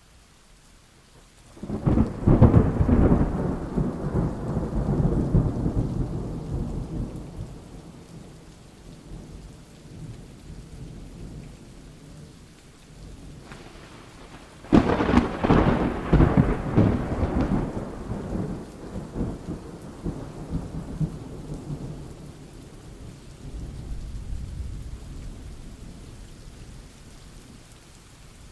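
Thunderstorm: two thunderclaps, one about two seconds in and one about halfway through, each breaking suddenly and rolling off in a long rumble over several seconds, with steady rain throughout.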